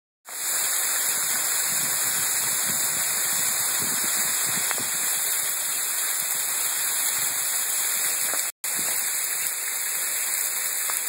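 Sleet and rain coming down hard: a steady, dense hiss of falling ice pellets and rain, cut off by a brief dropout about eight and a half seconds in.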